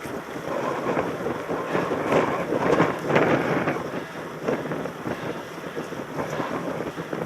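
Wind rushing over a helmet-mounted camera's microphone while mountain biking, with irregular rattles and knocks from the bike on rough ground. The noise swells loudest around the middle.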